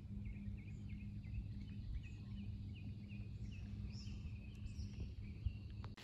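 A bird calling a quick series of short, downward-sliding chirps, about three a second, over a steady low hum.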